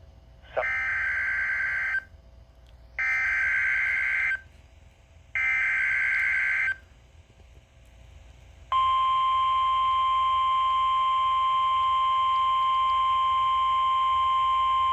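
NOAA Weather Radio emergency alert: three short bursts of screeching SAME digital header data, each about a second and a half long and a second apart. About nine seconds in comes the long, steady, single-pitched warning alarm tone that announces an alert being broadcast, here a severe thunderstorm watch.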